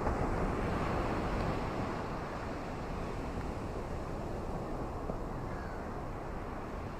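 Ocean surf: a steady wash of waves, swelling a little in the first second or so and then easing off.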